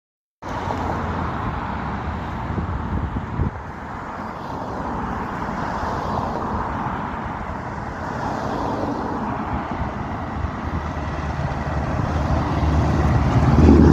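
Scania R-series V8 truck engine running under steady road and traffic noise, growing louder over the last couple of seconds.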